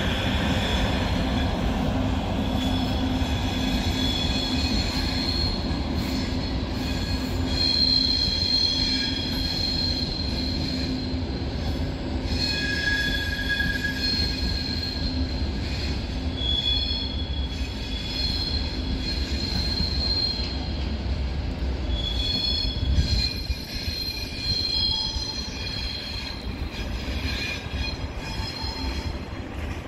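Frecciarossa ETR 500 high-speed train rolling slowly through the station tracks over a steady low rumble. Its wheels squeal in several high whistling tones that come and go.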